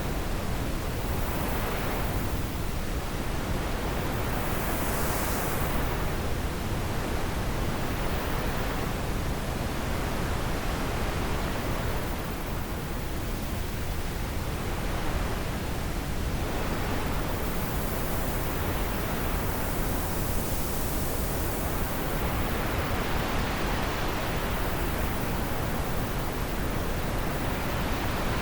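Wind blowing steadily, a broad rushing hiss whose higher part swells and eases in gusts every few seconds.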